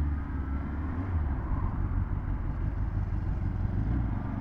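Kawasaki ZX10R's inline-four engine running steadily at low revs, an even low drone with no revving.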